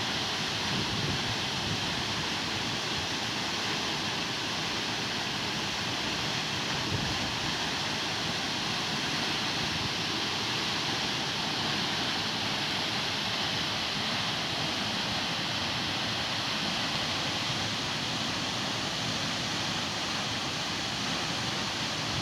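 Waterfall rushing steadily, a constant hiss of falling water that never changes in level.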